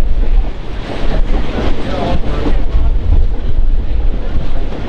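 Wind buffeting the microphone, with the steady low rumble of a moving train underneath.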